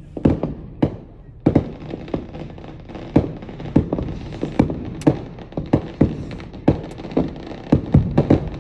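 Fireworks going off: sharp bangs at irregular intervals, about one or two a second, each trailing off in an echo, over a steady rumble of more bursts that grows louder about a second and a half in.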